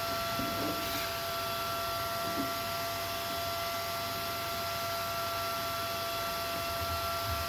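Steady hiss with a faint, steady electrical whine.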